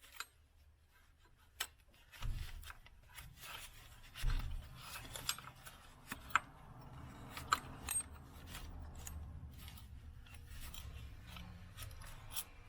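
Hand tools and small metal parts clicking, clinking and scraping irregularly while the glow plug plate is fitted, with a couple of sharper clicks about six and seven and a half seconds in.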